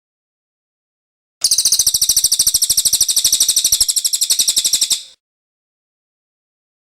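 Cililin songbird singing one long, rapid trill of clear high notes for about four seconds, starting about a second and a half in and stopping abruptly.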